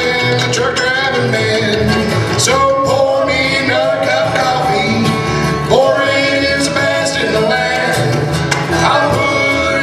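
Live bluegrass band playing a country song at a brisk mid tempo: banjo, flat-top guitar, mandolin and upright bass.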